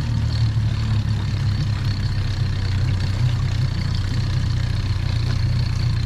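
Main outboard motor of a small fishing boat idling steadily just after being started.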